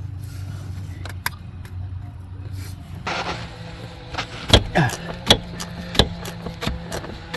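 A steady low hum, then from about three seconds in a rustling of handling and a run of about six sharp knocks and clicks, as of tools and parts being worked on the truck.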